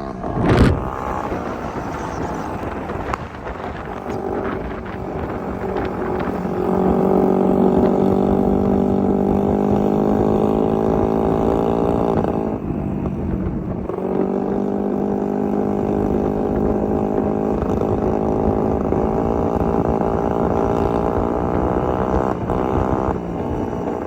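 A vehicle engine running steadily at road speed. Its note rises slightly, dips briefly about halfway through as the throttle eases, then picks up again. A sharp knock sounds about half a second in.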